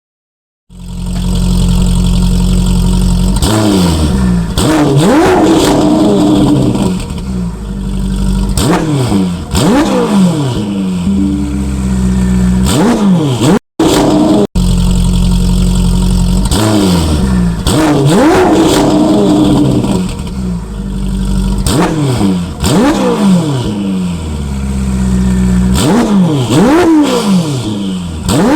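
Ferrari 488 Pista's twin-turbo V8 through a Novitec Inconel exhaust, revving hard: the engine note climbs and drops again and again. There is a brief gap about halfway, then a second run of the same.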